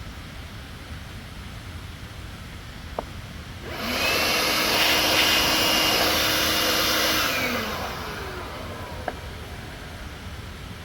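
A handheld electric tool with a motor and fan spins up with a rising whine and airy rush, runs steady for about three seconds, then winds down, its pitch falling. Light clicks come before and after it.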